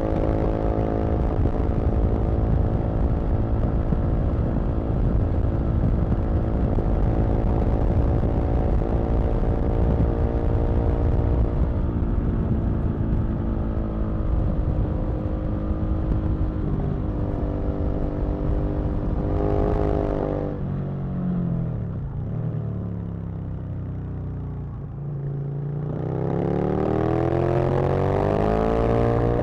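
Aprilia RSV Mille's 60-degree V-twin engine under way at steady revs, then a quick rise in revs about twenty seconds in followed by a drop to low revs for several seconds. Near the end it accelerates hard again, its pitch climbing.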